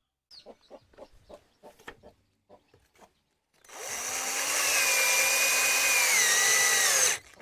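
Scattered light knocks and taps, then a power drill running for about three and a half seconds, its whine dipping in pitch shortly before it cuts off.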